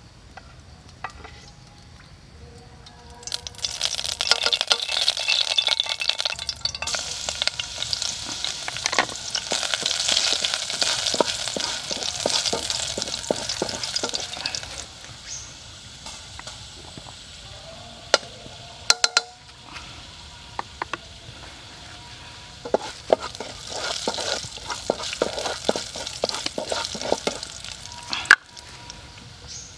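Chopped aromatics sizzling in hot oil in a metal pot, stirred with a wooden spatula that scrapes and taps against the pot. The sizzle starts about three seconds in, dies down around the middle, and flares again with more stirring near the end.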